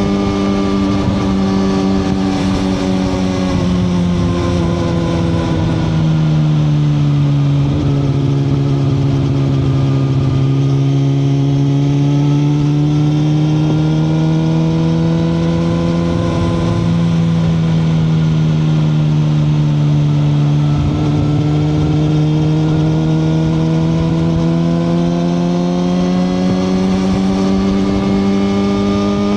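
2021 Suzuki GSX-R1000R inline-four engine heard while riding at steady part throttle. The engine pitch sinks over the first several seconds and then climbs slowly through the rest, with brief breaks about seven and twenty-one seconds in.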